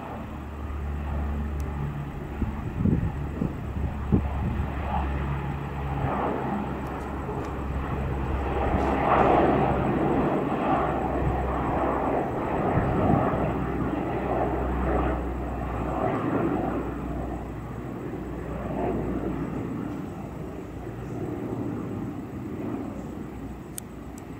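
Military aircraft taking off, its engine noise loud. It swells to a peak about a third of the way in, then slowly fades.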